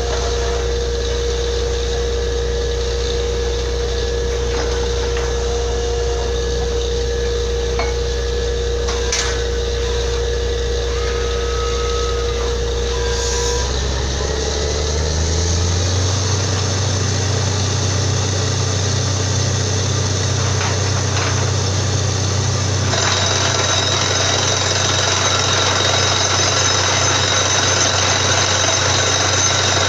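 A borewell drilling rig's engine runs steadily, and about halfway through its note rises as it speeds up. About three quarters of the way in, a louder, harsher rattling hiss joins, as the rig's drilling gets going.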